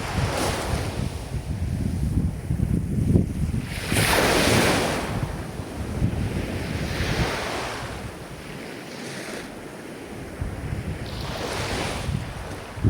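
Ocean waves breaking and washing up on the shore in repeated surges, the biggest about four seconds in and smaller ones near seven and twelve seconds, with a low rumble of wind on the microphone underneath.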